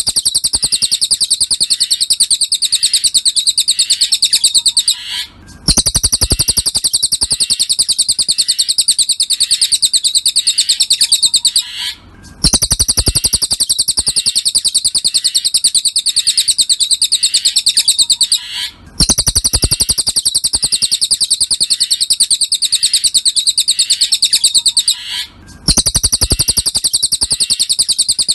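Cililin bird song: a fast, unbroken trill of high chirps, repeating in phrases of about six seconds with a brief break between them.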